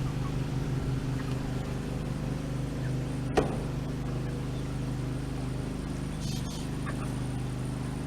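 Small vehicle engine running steadily at low revs, with a single sharp knock a little over three seconds in.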